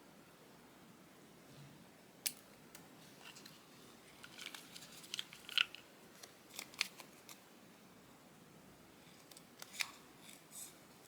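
Scissors snipping paper in short, crisp cuts: a single snip about two seconds in, a run of cuts from about four to seven seconds, and a few more near the ten-second mark.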